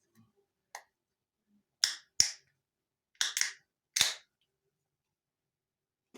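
Six sharp snaps in about three seconds, some in close pairs, the loudest a pair about two seconds in, each dying away quickly.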